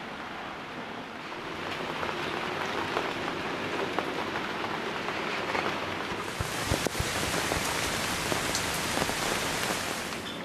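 Rain falling on a tent, with single drops ticking on the fabric; the rain grows heavier about six seconds in.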